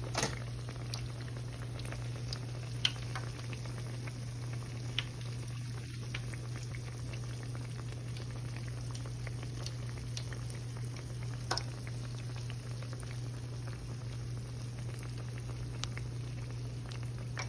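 Batter-coated Oreos deep-frying in hot oil: a steady sizzle and bubbling, with a few sharp pops scattered through, over a steady low hum.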